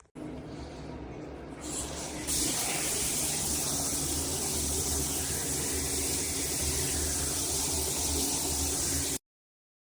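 Shower head spraying water: a steady rushing hiss that comes on at the start, grows stronger twice within the first couple of seconds, then cuts off suddenly near the end.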